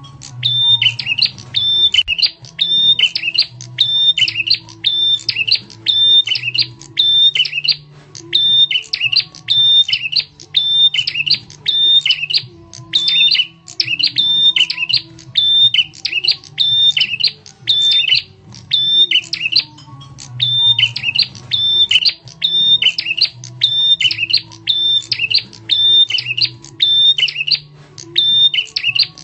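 Prenjak tamu (a prinia) calling as a bird lure: loud, sharp, high chirping phrases repeated about once a second without a break. A faint low hum runs underneath.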